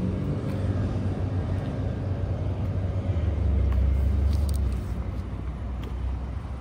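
A steady low rumble that swells for a second or so in the middle, then eases off.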